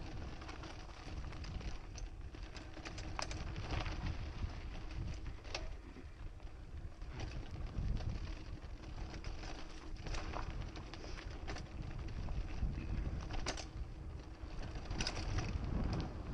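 Mountain bike being ridden along a dirt trail: a steady low rumble of tyres and wind, with scattered clicks and rattles from the bike over bumps and roots.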